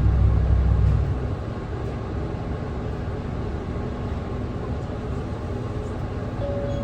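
Nissan Diesel Space Runner city bus's diesel engine pulling away from a stop, heard from inside the cabin: a loud low engine note that drops off about a second in, then steady running with road noise.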